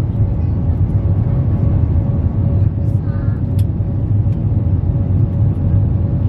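Steady low rumble of airliner cabin noise in flight: engine and airflow noise with a faint constant hum above it.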